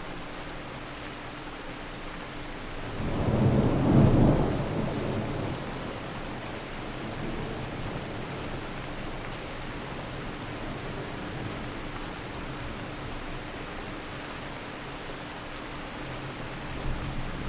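Steady rain falling, with a roll of thunder about three seconds in that swells up and dies away over the next few seconds; another low rumble of thunder starts near the end.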